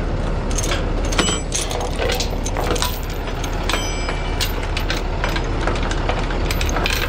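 Metal tie-down hooks and chains clinking and rattling as they are handled, with a couple of sharp ringing clinks, over a steady idling truck engine.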